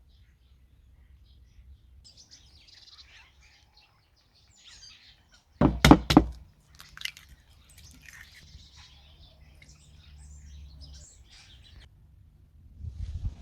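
Faint bird chirping, broken by a quick run of four or five sharp knocks about six seconds in.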